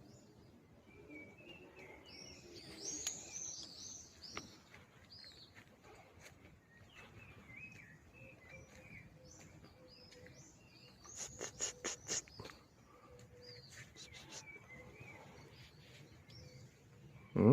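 Small birds chirping outdoors: many short, high chirps. About eleven seconds in there is a quick run of sharp ticks.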